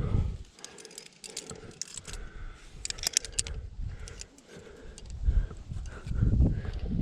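Metal climbing gear, carabiners and quickdraws on a harness, clinking and jingling as the climber moves, with a cluster of jingles about three seconds in. Low rumbling noise comes at the start and again near the end.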